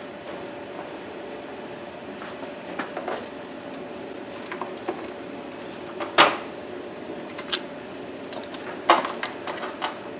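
Scattered knocks and clicks of metal parts and tools being handled as a small electrical control box is mounted, the loudest knock about six seconds in, over a steady faint hum.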